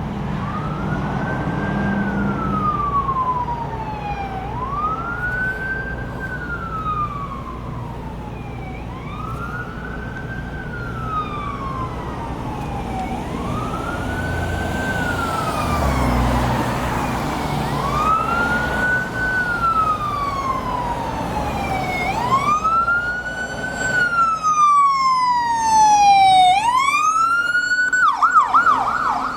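Ambulance siren in wail mode: a quick rise and a long slow fall, repeating about every four to five seconds, with vehicle and traffic rumble underneath. It grows louder near the end, then switches to a rapid yelp in the last second or so.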